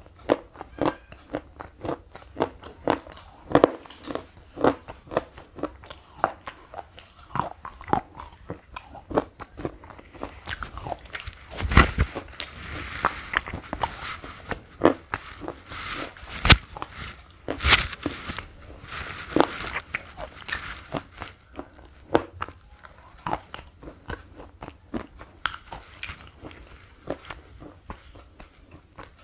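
Slate pencil being bitten and chewed close to the microphone: a quick run of sharp, crisp crunches, several a second, with a few much louder cracks in the middle.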